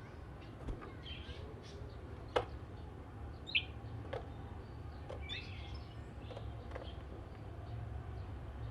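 Oriental magpie-robin (kacer) giving scattered short chirps and call notes, with two sharp clicks in the first half, over a steady low hum.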